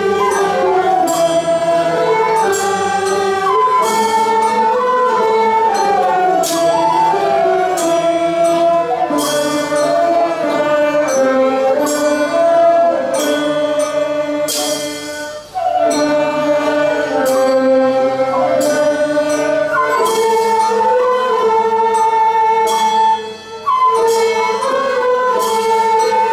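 Nanguan music: a slow, sustained melody with singing, moving in small steps and marked by occasional sharp percussive strokes.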